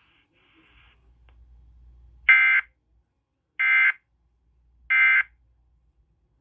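Emergency Alert System end-of-message data tones: three short, identical raspy digital bursts about a second apart, marking the end of the broadcast tornado warning.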